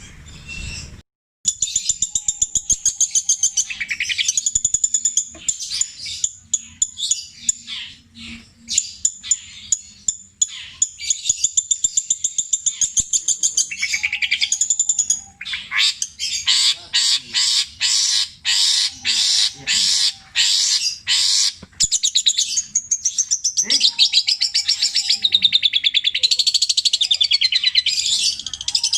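Long-tailed shrike (cendet) singing continuously: a fast, high-pitched mix of trills, chatter and sharp notes, a song built from imitations of other birds' calls. Midway through comes a run of loud notes repeated rapidly and evenly.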